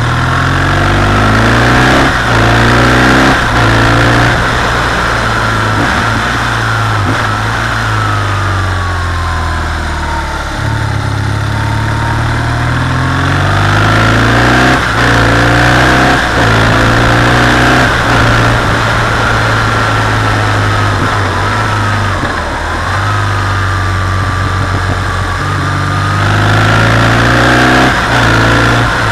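BMW R 1200 GS's air/oil-cooled boxer twin pulling through the bends, its pitch climbing and falling again and again with throttle and gear changes. Wind rushes steadily past the microphone underneath.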